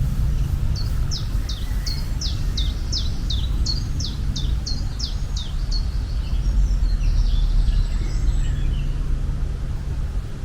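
A songbird sings a run of about a dozen quick, high, down-slurred notes, about three a second, over a steady low rumble of outdoor ambience; fainter bird calls follow.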